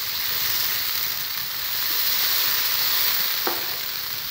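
Tomato, onion and yogurt masala sizzling in hot ghee in a non-stick karahi while a spatula stirs it, the sizzle swelling a little in the middle.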